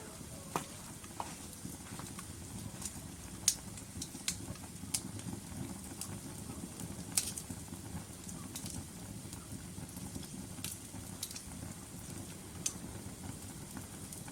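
Wood logs burning in a fireplace: a steady low rush of flames with sharp, irregular crackles and pops, the loudest about three and a half and seven seconds in.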